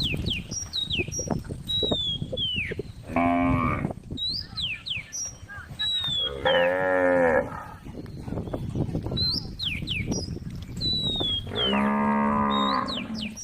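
A cow mooing three times, each moo about a second long, with short high whistling calls between the moos.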